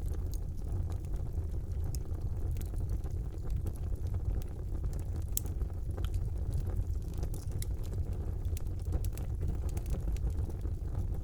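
Wood fire burning in a fireplace: a steady low rumble of the flames with scattered sharp crackles and pops, one louder pop about five seconds in.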